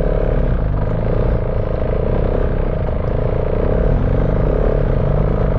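KTM 690 Enduro R's single-cylinder engine running at a fairly steady pace while riding, with rushing noise from the ride mixed in.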